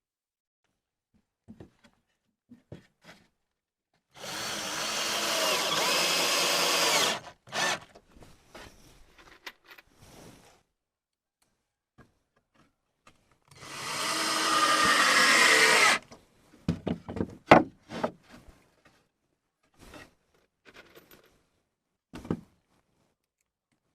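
Handheld electric power tool running in two bursts of about three seconds each, its motor pitch sagging under load, with knocks and clattering of handled material between and after.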